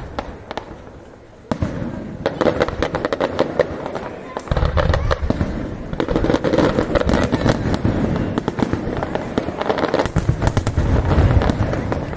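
Aerial fireworks going off in quick succession: dense crackling and popping, with heavier deep booms joining from about four and a half seconds in.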